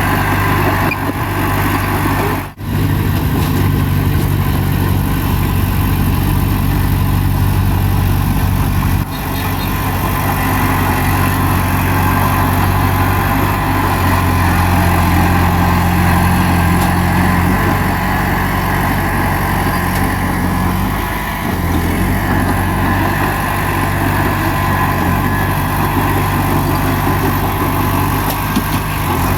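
Bulldozer's diesel engine running steadily under work, its note pulling harder for a few seconds around the middle. The sound breaks off briefly twice, about two and a half and nine seconds in.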